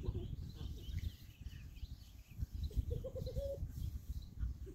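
Outdoor ambience of birds chirping over an uneven low rumble, with a brief run of quick, low cooing calls about three seconds in.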